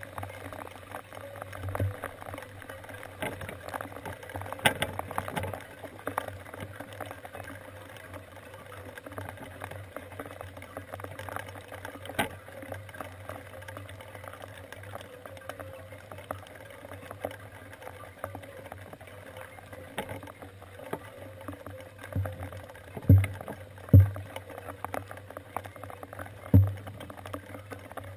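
Steady rain falling, with scattered sharp ticks of raindrops striking the camera and a few dull thumps near the end.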